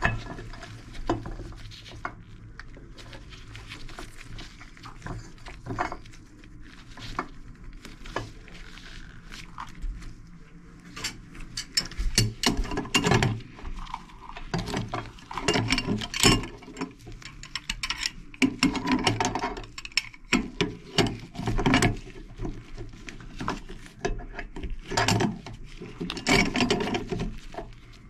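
Clinks, taps and scrapes of metal faucet parts and hand tools being handled and tightened during a faucet rebuild. The clatter comes in irregular bursts and gets busier about halfway through.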